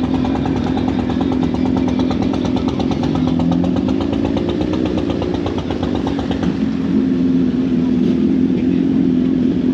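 Honda CBR650R's inline-four engine running through an Akrapovič exhaust under way. The note holds fairly steady, rising and easing a little as the rider works the throttle.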